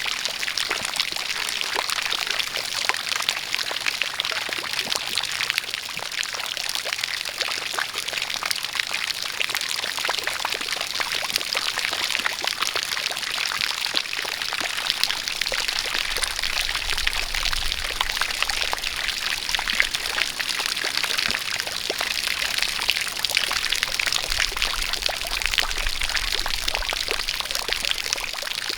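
A steady jet of water pouring and splashing, with rain falling, as an even, unbroken hiss full of fine spatters.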